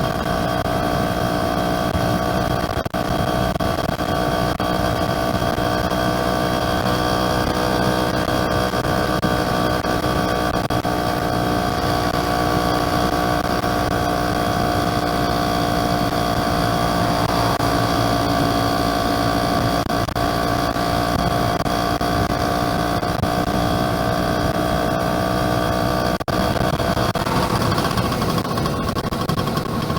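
Yamaha F1ZR two-stroke underbone motorcycle engine running at a steady pitch while riding. The sound dips briefly twice, about three seconds in and again near the end.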